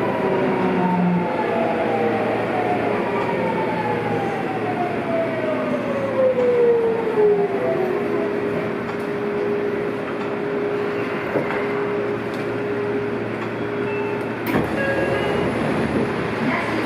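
Seibu 6000 series electric train's inverter and traction motors whining as it brakes: the whine falls steadily in pitch as the train slows, then holds one steady tone before cutting off with a click about 14.5 seconds in. Wheel and car rumble runs underneath.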